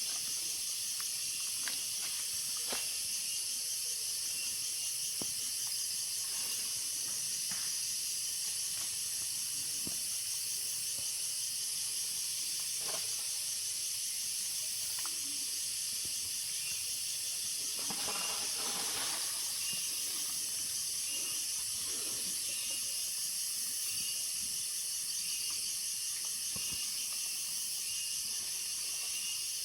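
Steady high-pitched chorus of rainforest insects, an unbroken hiss-like drone. A few faint clicks sound through it, and a short pitched call rises briefly about eighteen seconds in.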